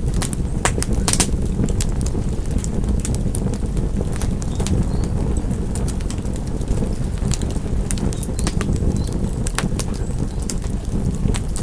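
Fireplace fire crackling, with sharp pops at irregular intervals over a steady low rumble of the flames.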